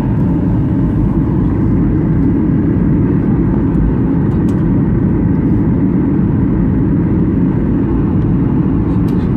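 Steady jet airliner cabin noise: the even low drone of engines and rushing air heard from inside the passenger cabin in flight.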